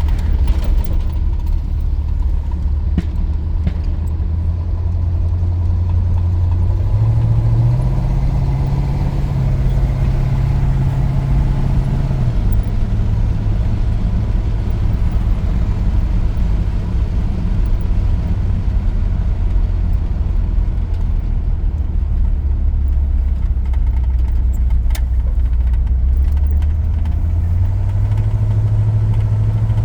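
1983 GMC C2500 pickup's engine droning from inside the cab while driving. Its pitch climbs about a quarter of the way in, drops back a few seconds later, and climbs again near the end.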